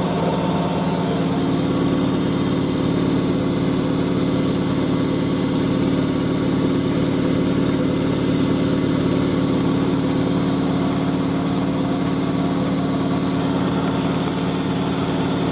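Hoover A3060 Electronic 1100 washing machine spinning at high speed, at its 1100 rpm top speed: a loud, steady drone and whine of the motor and drum.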